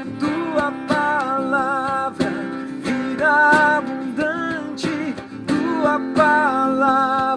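Worship music: a strummed acoustic guitar, its strokes coming a few times a second, with a wavering melody line held over it.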